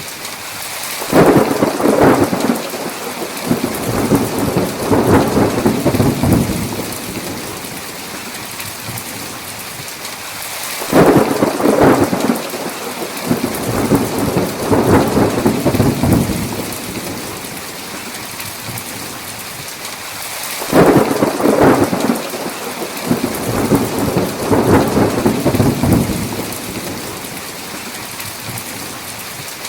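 Heavy rain falling steadily, with three long rolls of thunder about ten seconds apart, each starting with a sharp crack and rumbling on for about five seconds.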